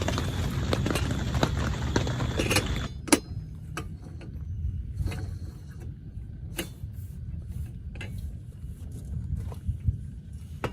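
Heavy rain drumming on a tent for about three seconds, then cutting off abruptly with a sharp click. After that it is quieter, with a low rumble and scattered separate clicks and knocks of gear being handled.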